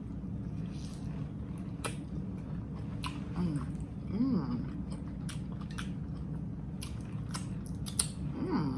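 A woman chewing a big mouthful of a soft, saucy sandwich close to the microphone, with frequent wet mouth clicks and smacks. She gives a few short hums of enjoyment, one near the middle and one near the end.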